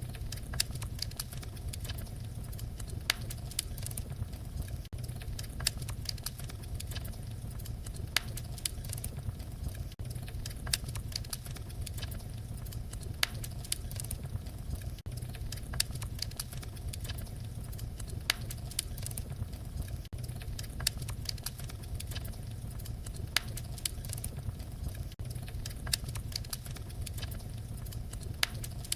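Wood fire crackling, with scattered sharp pops over a steady low rumble of the flames.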